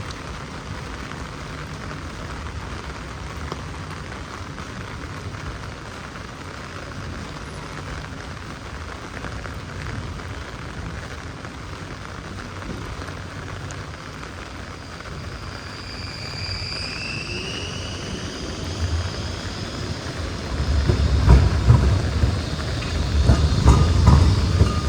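Heavy rain falling steadily. About fifteen seconds in, a tram approaches with a high rising whine, and near the end it passes close with a loud rumble and clatter of wheels on rails.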